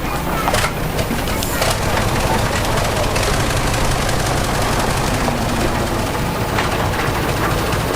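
Diesel earthmoving machinery running steadily under load, with a metallic clanking rattle and a few sharp knocks about a second in and again near the end.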